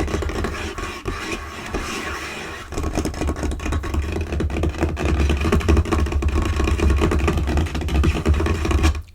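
Fast, hard tapping and scratching with fingers and nails on a tabletop, close-miked, giving a dense run of quick taps over deep thuds. It grows louder about three seconds in.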